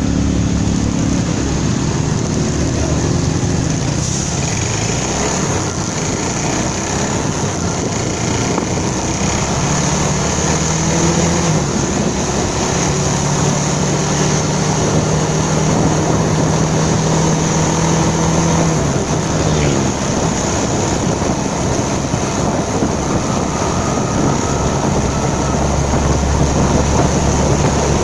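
Motorcycle being ridden: its engine runs with the pitch rising and falling as the throttle changes, over a steady rush of wind and road noise.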